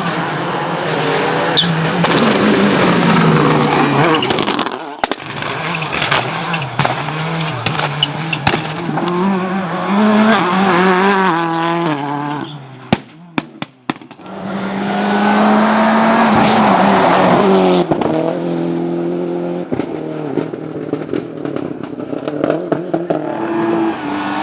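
Rally cars driven hard past the spectators, engines revving up and down through gear changes over several passes, with tyre squeal. About halfway through, a quieter gap holds a few sharp cracks.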